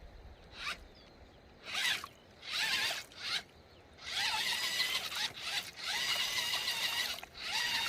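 Electric motor of a radio-controlled truck whining in a series of short throttle bursts, the pitch rising with each blip as the truck is driven on and off the throttle. The longer bursts come in the second half.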